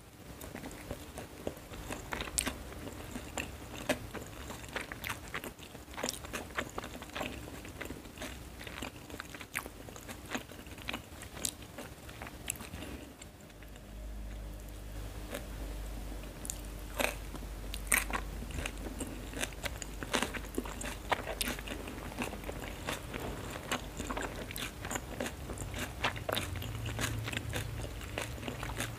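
Close-up eating sounds of a person chewing mouthfuls of fried noodles, with many sharp wet clicks and crunches. A steady low hum comes in about halfway through.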